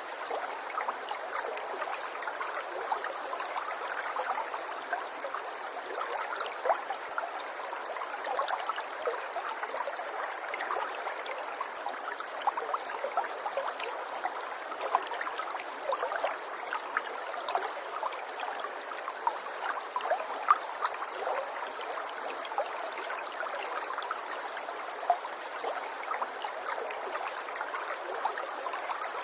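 Water running in a small stream: a steady babble with many small splashes and drips.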